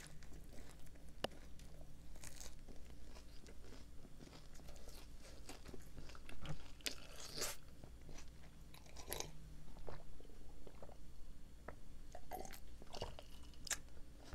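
Close-up biting and chewing of a Loacker finger chocolate doughnut, with scattered soft crunches and mouth clicks. A sip from an iced drink comes near the middle.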